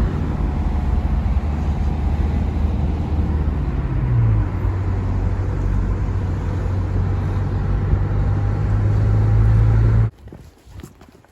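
Car running with a steady low hum, its note stepping up about four seconds in; the sound cuts off abruptly near the end.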